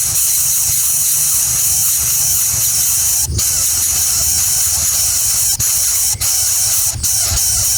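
A steady, loud high-pitched hiss with a low rumble underneath.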